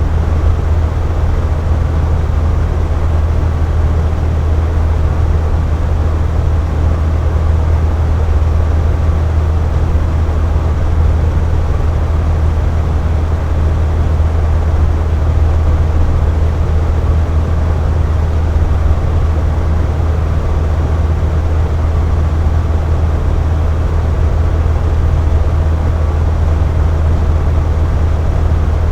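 Box fan running steadily, a constant low hum under an even whoosh of moving air.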